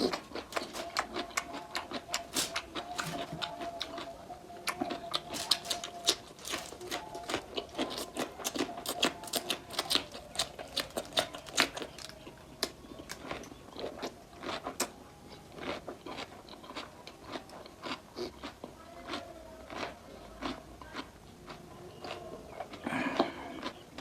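Close-miked eating of mutton nalli (bone-in mutton shank) curry with rice: irregular wet chewing and mouth clicks, coming thick and fast at first and sparser in the second half.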